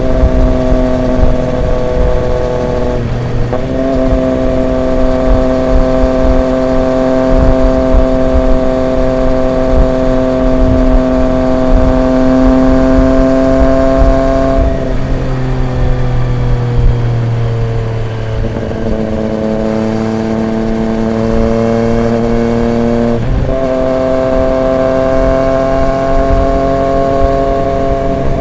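Triumph Street Triple 765 RX's three-cylinder engine through an SC Project S1 aftermarket exhaust, heard from the rider's seat while cruising at steady revs. The note breaks briefly a few seconds in, sags through the middle as the throttle eases off, and steps back up near the end.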